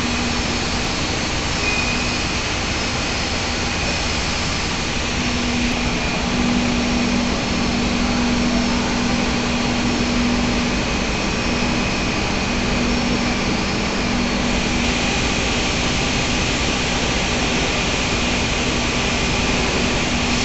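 Steady, loud drone of industrial machinery: a continuous rushing noise with a constant low hum and a faint high whine, unchanging throughout.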